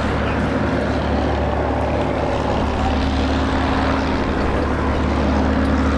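Packard Merlin V-12 engines of a formation of P-51D Mustangs flying overhead, a steady propeller-aircraft drone that grows a little louder near the end.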